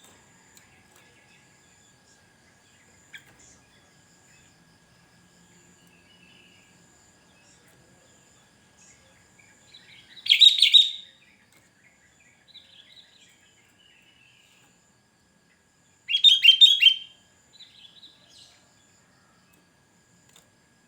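Sooty-headed bulbul (kutilang) singing two loud, short song phrases about six seconds apart, each followed by a softer phrase, used as a calling bird to lure wild birds. A faint steady high insect-like tone runs underneath.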